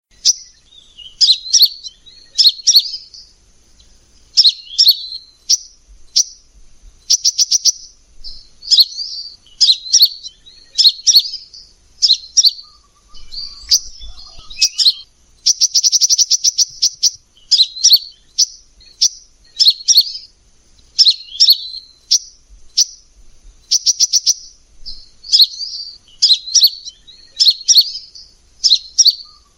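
A sunbird of the kind Indonesian keepers call kolibri ninja, singing: high, rapid chirping phrases about once a second, broken now and then by fast rattling trills, the longest about halfway through.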